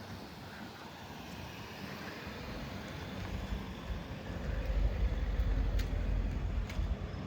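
Outdoor city street ambience: a steady hiss, with a deep rumble that builds from about halfway through and stays loud to the end. Two faint ticks come near the end.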